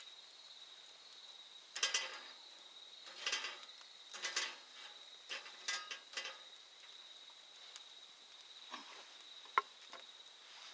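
A steady high-pitched insect trill, like autumn crickets, with scattered short clicks and scrapes laid over it.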